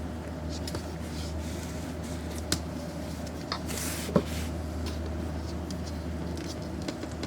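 Steady low room hum with scattered light ticks and clicks, two sharper clicks and a brief rustle in the middle.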